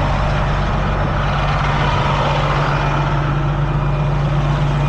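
Heavy truck's diesel engine running steadily at a constant speed, a low even hum with no change in pitch.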